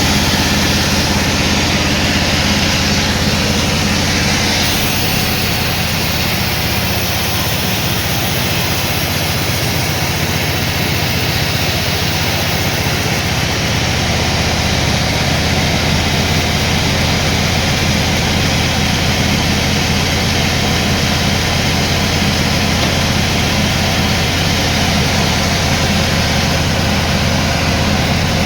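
Sawmill machinery running steadily, with a constant low hum and an even wash of noise above it.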